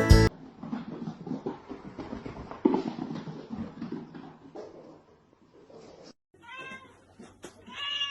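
Domestic cat meowing: two short calls about a second apart near the end, after a few seconds of faint irregular rustling.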